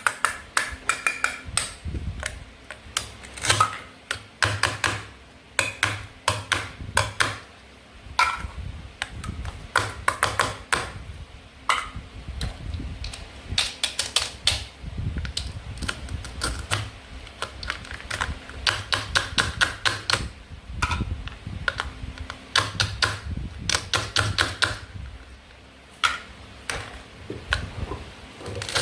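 Toy play-food pieces being cut and handled: rapid runs of sharp clicks and clacks on a hard surface, coming in bursts with short pauses between.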